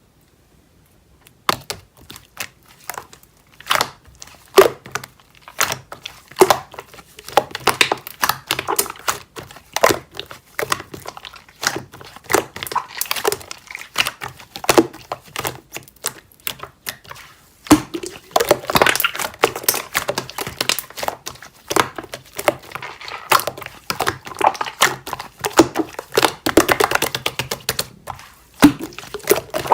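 Slime being squished and pressed by hand, a dense, irregular run of sticky clicks and crackles.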